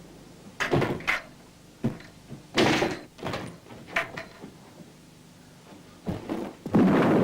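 A run of door bangs and knocks, several thumps and clatters over about four seconds. Near the end a steady rushing noise starts up and continues.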